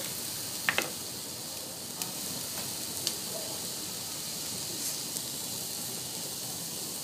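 Onion, tomato and spice masala frying in oil in a pressure cooker base: a steady sizzle, with a couple of light clicks just under a second in.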